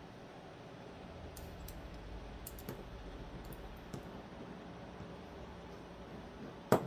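Small metallic clicks and taps from handling a folding knife's parts and screws while reassembling it with a Torx driver, a few faint ones and then one sharp, louder click near the end.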